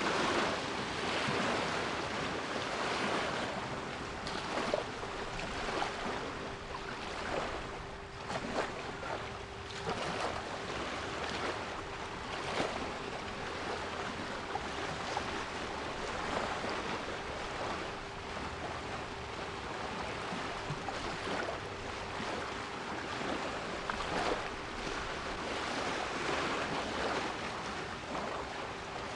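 Sea waves washing in and out in swells every few seconds, with a steady 396 Hz pure tone held underneath.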